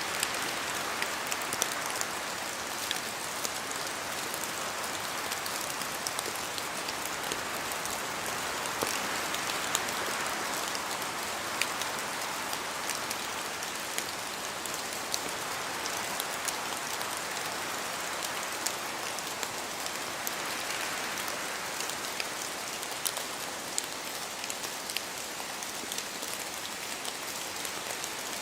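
Steady rain falling in a forest, with many single drops from the trees ticking sharply through the even hiss. The hiss swells and eases slowly a few times, every ten seconds or so.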